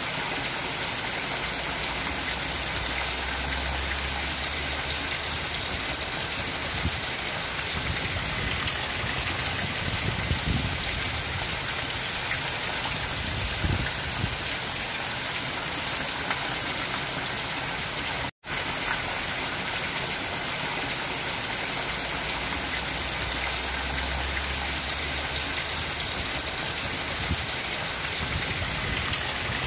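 Heavy rain pattering on a zinc (corrugated metal sheet) roof, with runoff pouring off the roof edge onto the grass below: a steady, even hiss of water. It drops out for an instant about two-thirds of the way through.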